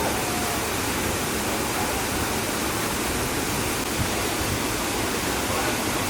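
Waterfall pouring close by: a steady, even rush of water that does not change.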